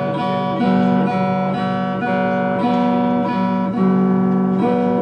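Electric guitar played through a small test amp, strummed chords struck about every two-thirds of a second and left ringing, likely on the rhythm (neck) pickup. The guitar is being checked after new vintage-style capacitors were wired in.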